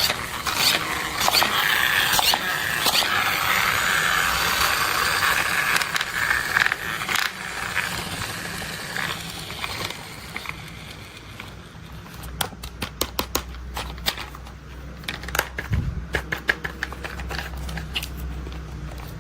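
Crackling, crinkling handling of plastic toy packaging, then a run of quick sharp taps and clicks in the second half.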